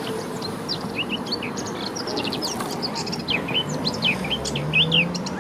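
Small birds chirping: many short, quick chirps in close succession over a steady background hiss of outdoor noise.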